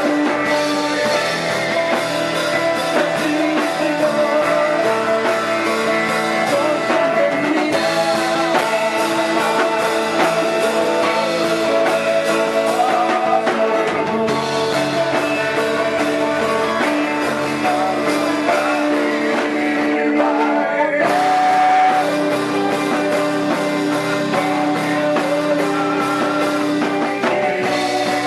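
A band playing a worship song live, with guitar and singing over sustained chords.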